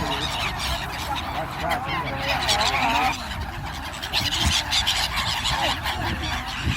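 Flock of gulls calling, many overlapping harsh squawking calls that waver in pitch, with a denser cluster of calls about two to three seconds in and again after four seconds.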